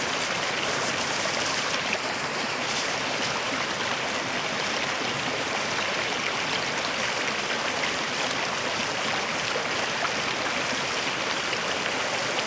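A creek swollen by heavy rain, running high and overflowing its banks, with a steady rush of water.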